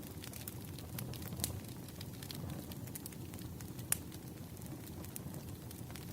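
Campfire burning with a steady low rush and frequent small crackles of burning wood, with one sharper pop about four seconds in.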